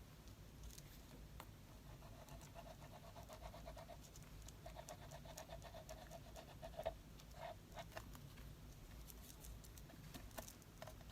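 Near silence: faint light taps and rustles of paper and craft materials being handled, with a faint, broken high whine from about two seconds in to about seven seconds in.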